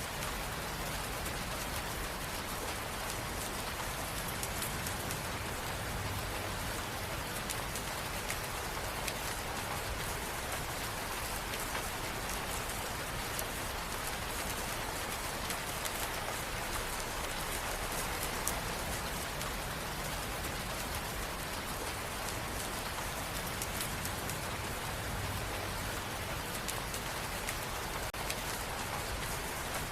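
Steady rain falling on a surface, a constant even hiss with fine scattered drop patter.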